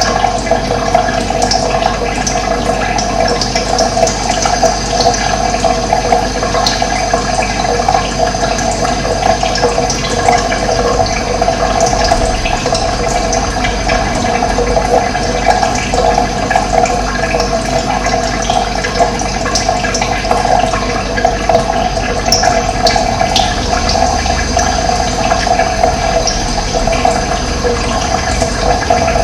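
Running water, flowing with a steady, unbroken rush.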